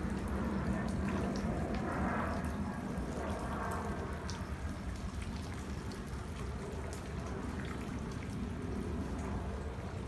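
Rain falling steadily, with individual drops tapping and dripping irregularly.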